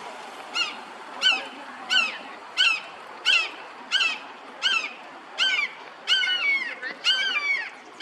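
A waterfowl calling over and over: about a dozen short, high calls, roughly one and a half a second, each bending down in pitch, the last few longer and running together.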